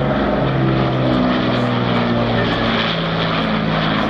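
Propeller-driven piston-engined warbird flying past, a loud steady engine drone whose several tones shift in pitch as it moves.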